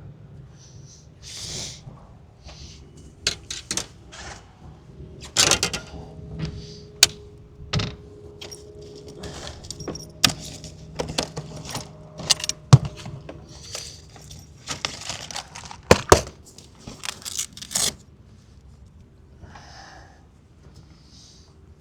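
Fishing tackle being handled while a hook is changed for a bigger live-bait hook: irregular light clicks, knocks and small metallic jingles, over a low steady hum.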